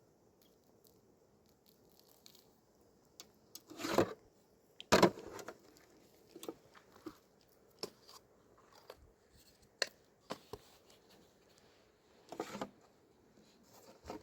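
Scattered handling noises: sharp clicks and brief rustling and crunching, with louder bursts about four and five seconds in and again near the end.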